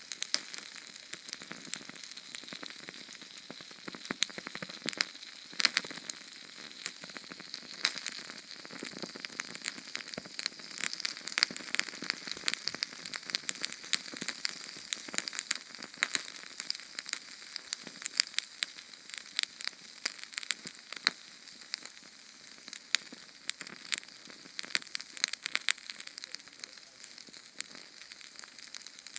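Small Sterno canned-fuel flame crackling: a steady hiss broken by a dense, irregular run of sharp pops and ticks.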